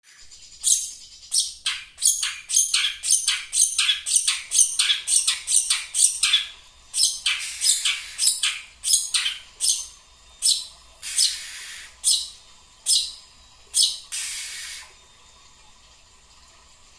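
A bird giving short, shrill, squawking calls, about two a second at first, then slowing and spacing out. Twice near the end a longer harsh hissing sound lasts about a second.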